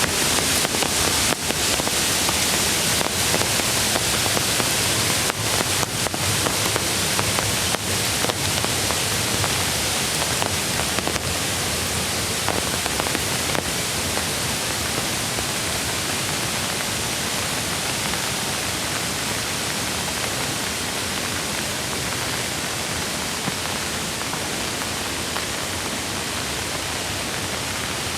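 Steady hiss of rushing mountain-stream water and rain, with a few faint ticks in the first half.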